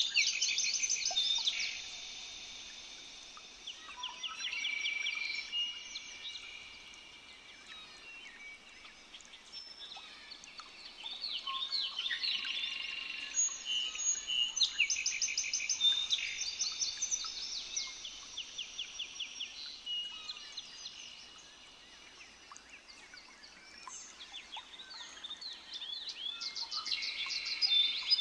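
Many high-pitched bird chirps and fast trills overlapping, swelling and fading in loudness several times.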